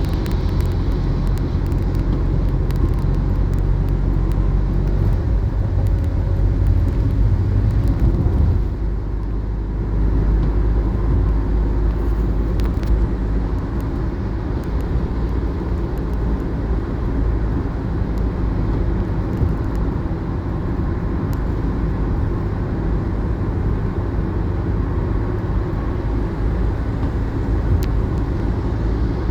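Steady low rumble of a running engine; its deepest tone drops away and the sound eases slightly about eight and a half seconds in.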